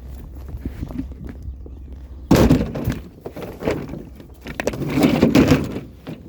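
Scrap pieces being thrown into the back of a vehicle: a loud crash about two seconds in, a shorter knock, then a longer rattling clatter.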